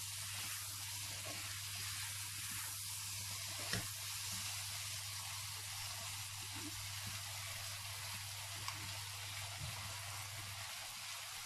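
Chickpea, tomato and spice masala sizzling steadily in oil in a non-stick wok, over a low steady hum, with one light tap about four seconds in.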